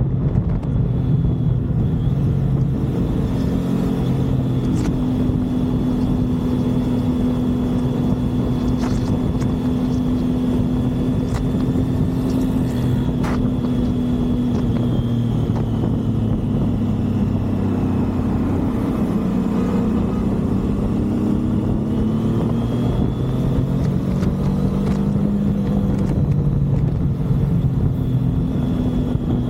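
Motorcycle engine running at steady cruising speed with heavy wind and road rush. The engine note sags slowly about two-thirds of the way through, then climbs again.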